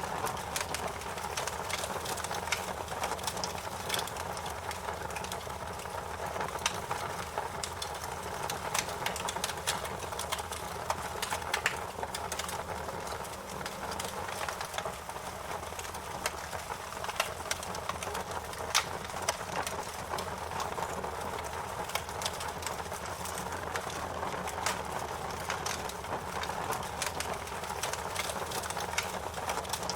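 Campfire burning, with irregular sharp crackles and pops over a steady hiss of flames.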